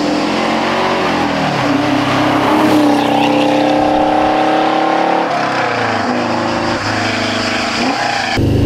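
Porsche 914 2.0's air-cooled four-cylinder engine heard from the roadside as the car drives by and pulls away, its note climbing under acceleration and dropping sharply about five seconds in and again near the end as it changes up a gear. Just before the end the engine is heard louder and deeper from inside the open cockpit.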